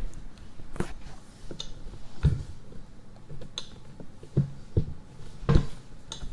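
Irregular clicks and taps, one roughly every second, each short and sharp over a quiet background.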